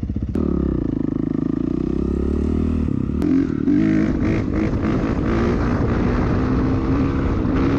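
Four-stroke dirt bike engine running under throttle as the bike rides off, the engine note jumping up and getting louder about three seconds in, with rushing wind over the engine after that.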